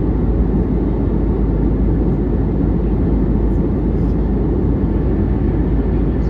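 Steady low rumble and rush of a jet airliner's cabin in flight, from the engines and the airflow over the fuselage.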